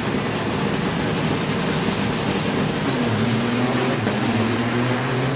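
Diesel semi-truck engines running at the drag strip start line. About three seconds in, an engine rises to a held, steady drone that creeps slightly up in pitch, with a thin high whine rising alongside it, as the trucks build revs to launch.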